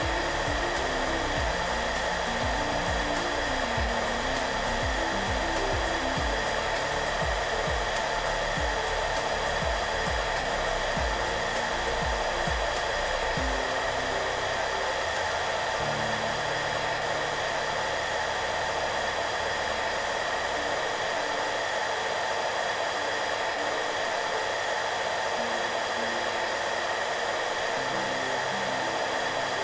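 Hair dryer blowing with a steady, even whooshing hiss. Soft music plays underneath, with a low beat in the first half.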